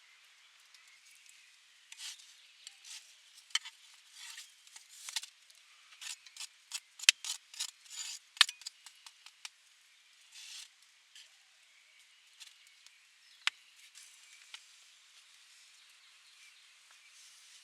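Irregular light clicks and taps of things being handled, coming thick and fast in the middle, then thinning out.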